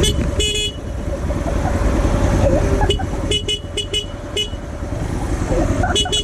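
Vehicle horn beeping in short blasts over a steady low rumble of riding noise: one blast about half a second in, a quick series of short toots around three to four seconds in, and rapid repeated beeping starting near the end.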